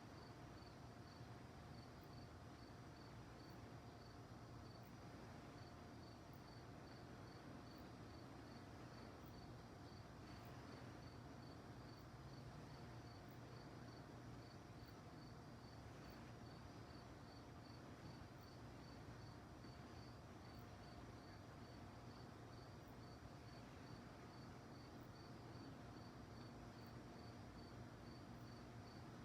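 Faint crickets chirping in a steady, even pulse of about two chirps a second, over a low hiss and a faint steady hum.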